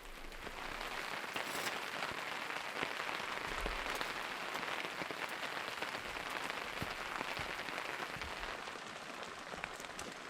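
Rain falling steadily on a surface, an even hiss dotted with many small drop ticks.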